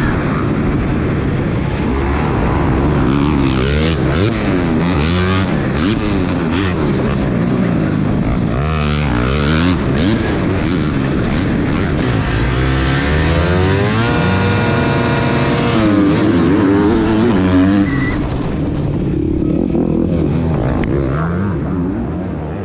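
Dirt bikes racing on a track, several engines revving up and down over and over, fading out near the end.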